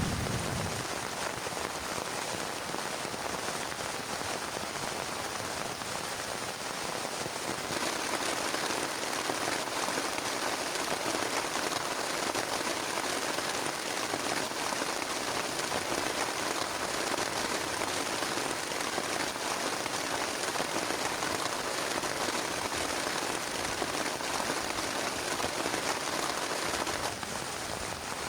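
Heavy rain pattering steadily on a plastic tarp, growing a little heavier about a quarter of the way in.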